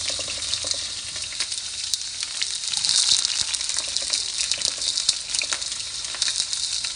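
Food frying in a hot skillet: a steady sizzling hiss with many small crackling pops, growing louder again near the end.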